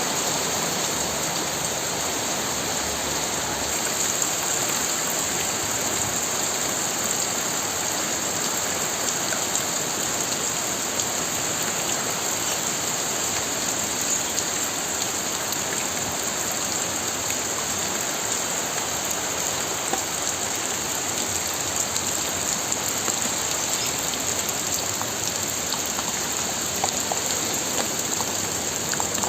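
Heavy rain falling steadily in a storm: a dense, even hiss sprinkled with fine pattering ticks.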